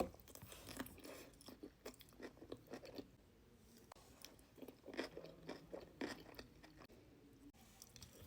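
Close-up eating sounds: quiet, irregular crunching and chewing of food, with louder clusters of crunchy bites.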